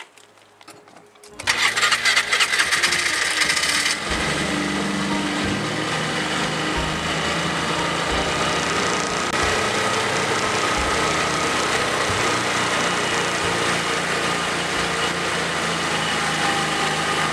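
A small vehicle engine starts up about a second and a half in, louder for its first couple of seconds, then runs steadily as the vehicle moves off.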